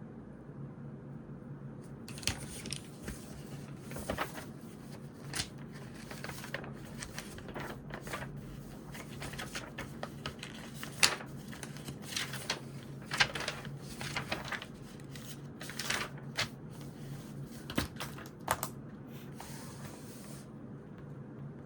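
Writing on notebook paper: irregular scratching strokes of a pen or pencil, with some paper rustling, over a steady low hum. The writing starts about two seconds in and stops shortly before the end.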